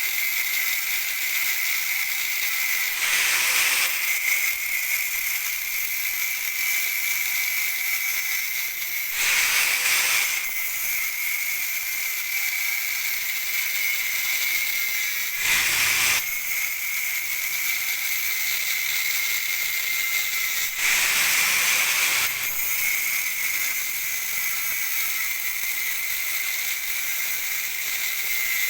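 Angle grinder running with a steady high whine while grinding the metal of a car exhaust, getting louder for a second or two about four times as the disc bears in harder.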